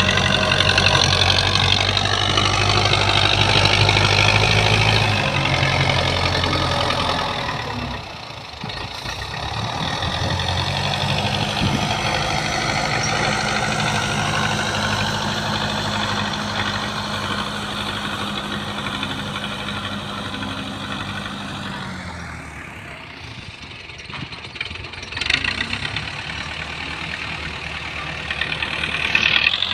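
Belarus tractor's diesel engine running, its speed and pitch rising and falling as it works, with a short sharp knock about 25 seconds in.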